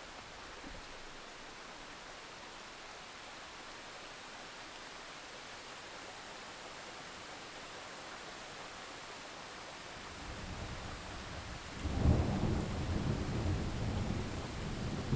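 Steady rain hiss, then a roll of thunder: a low rumble builds about ten seconds in and breaks into a loud crash near the end, rumbling on.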